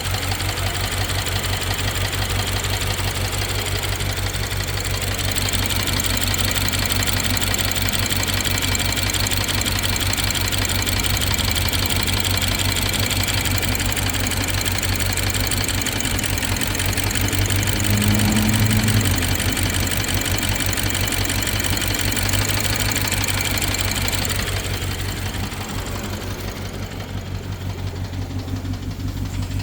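BMW N63 4.4-litre twin-turbo V8 idling with a rapid, steady ticking, briefly swelling a little past the middle. The owner hears a misfire and wonders whether the ticking, which started after new fuel injectors and a high-pressure fuel pump were fitted, is the timing chain.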